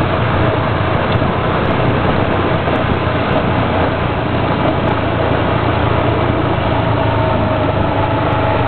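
Motorcycle engine running steadily, with a constant rush of noise over a low, even hum.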